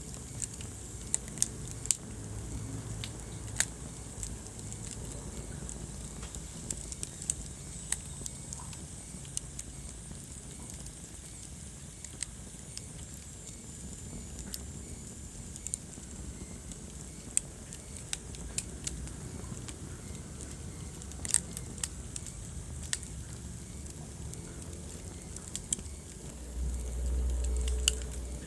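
Wood fire crackling: irregular sharp pops and snaps over a low steady rumble of burning, with a louder low rumble for a second or two near the end.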